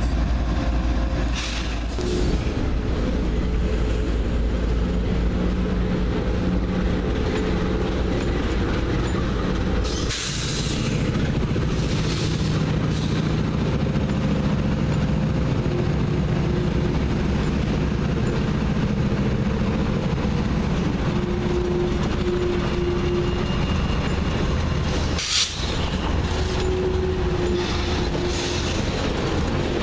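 Diesel locomotives of a CSX freight train passing close by, their engines running with a steady drone over the low rumble of wheels on rail. The sound breaks off briefly twice, about ten and twenty-five seconds in.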